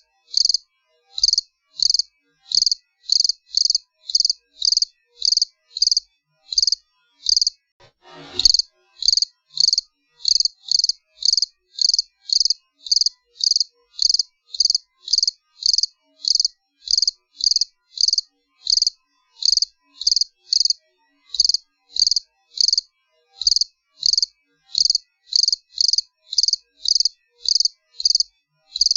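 Cricket chirping steadily in short, even, high-pitched chirps, about two a second. There is one brief falling noise about eight seconds in.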